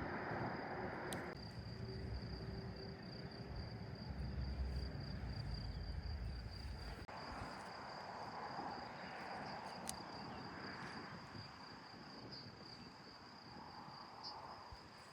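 Crickets trilling steadily at one high pitch, with a low rumble underneath that stops suddenly about seven seconds in.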